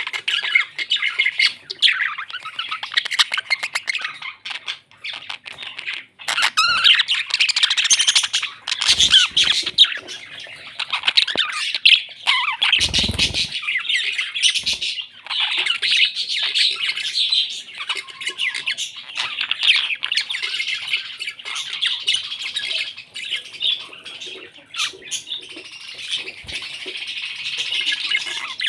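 Pet parrots chattering and squawking continuously, a busy stream of short, rapid calls. A brief low rumble cuts in about halfway through.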